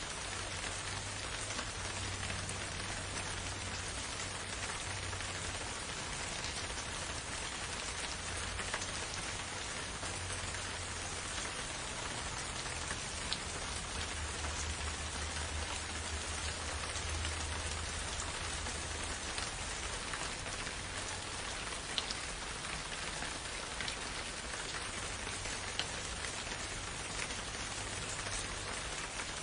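Steady rain falling, with a few single drops landing louder and sharper now and then.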